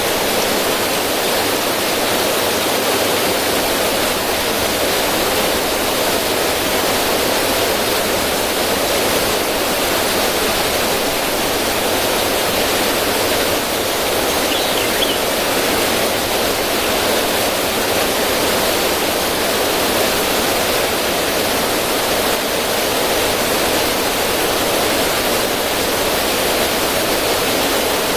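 Steady rushing of water flowing over stones in a small waterfall on a river stream.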